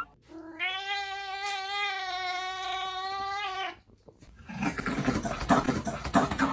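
A domestic cat giving one long, drawn-out yowl lasting about three and a half seconds at a steady pitch. It is followed about a second later by a stretch of jumbled scuffling noise.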